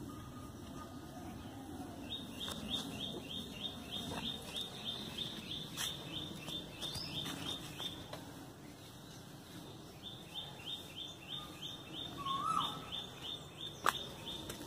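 A bird calling a fast series of short, high, slightly falling notes, about three a second, in two runs of several seconds with a pause between. A single lower, twisting note comes near the end, and a sharp click just before the end.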